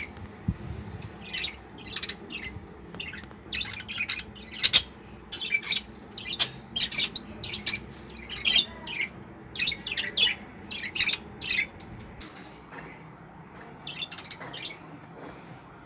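Budgerigars calling in their breeding cages: a busy run of short, sharp chirps and squawks that thins out near the end.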